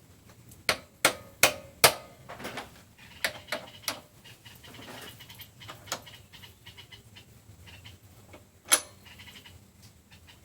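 A series of sharp knocks and clicks: four quick, loud ones in the first two seconds, scattered lighter ones after, and one loud knock near the end.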